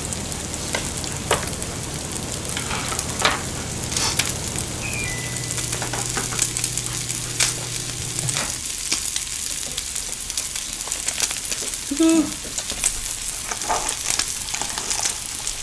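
Green-onion kimchi and pork belly sizzling in pork fat on a grill pan, with a few sharp metal clicks from tongs and scissors in the first few seconds. A low hum stops about halfway through.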